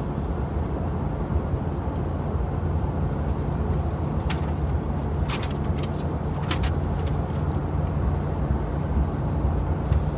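A vehicle engine running steadily with a low, even rumble, with a few short clicks about four to seven seconds in.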